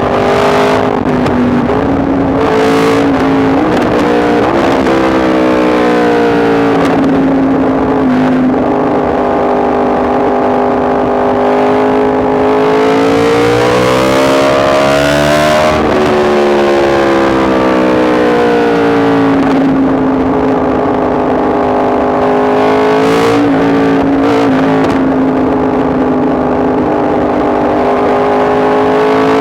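Yamaha MT-10 SP's crossplane inline-four engine running under way, its note rising and falling repeatedly as the rider accelerates and eases off, with one longer climb in pitch to a peak about halfway through before dropping away.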